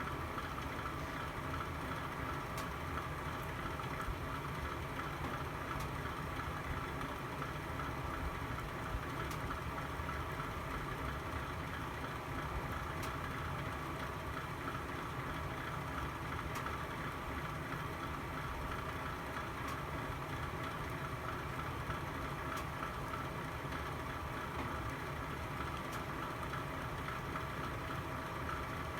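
Fireplace fire burning with a steady rumbling hiss, broken by a few faint, sharp crackles every few seconds.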